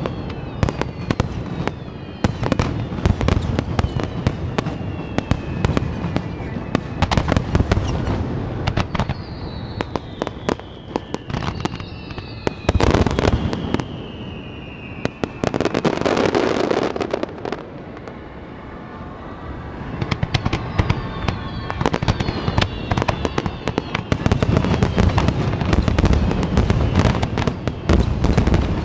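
Fireworks display: a rapid barrage of shells bursting with sharp bangs, several whistles falling in pitch partway through, and a dense crackling burst in the middle.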